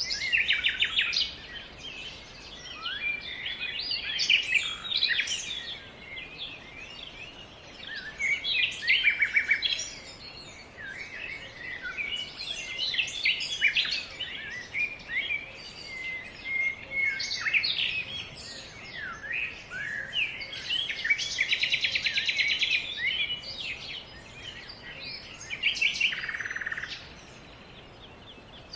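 Several songbirds singing and calling at once, a dense chorus of short overlapping chirps and whistles, with a fast trill about three-quarters of the way through. It quietens for the last couple of seconds.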